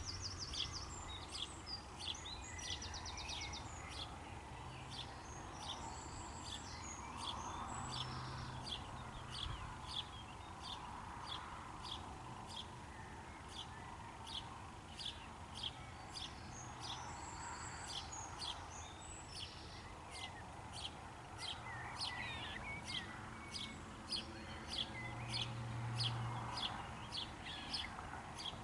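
Songbirds calling and singing: a steady run of short high chirps about once or twice a second, with a couple of quick trills, over a faint steady background noise.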